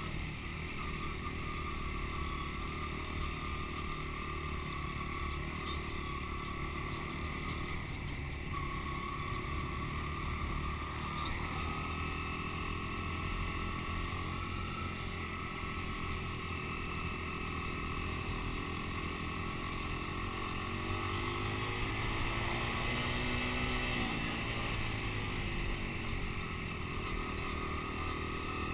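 Dirt bike engine running. The pitch climbs with the throttle about three-quarters of the way through, then drops off sharply.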